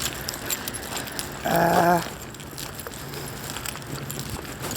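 Heavy rain falling, with many small sharp ticks close by, such as drops striking the phone and clothing. About one and a half seconds in, a short hummed vocal sound.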